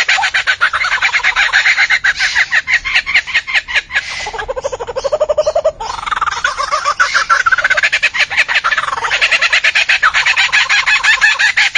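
A bird calling nonstop in fast, rapid-fire notes that sweep up and down in pitch. Near the middle the notes drop lower for about two seconds, then break off suddenly before the higher calling resumes.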